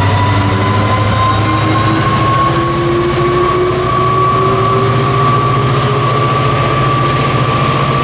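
Train running close by: a steady low drone with a whine that slowly rises in pitch over several seconds.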